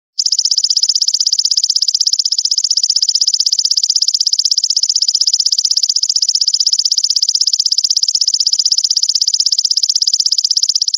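Steady, rapidly pulsed high buzz of a cicada-type insect ('brem'), looped as a birdsong training track. It cuts out for a moment at the very start and then runs evenly on.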